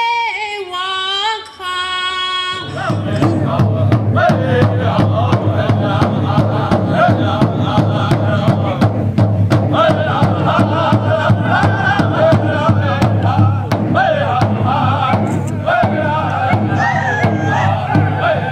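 A lone voice singing a Lakota song, held notes in a high register. About three seconds in, a drum starts a steady beat of about three to four strokes a second and a group of singers joins in: a Native American drum group singing in the powwow style.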